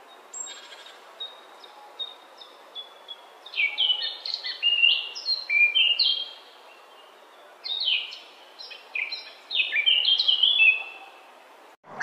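Birds calling in a jungle soundscape: a string of short chirps that each drop quickly in pitch, coming in two busy runs in the middle, over a steady background hiss. The sound cuts off abruptly near the end.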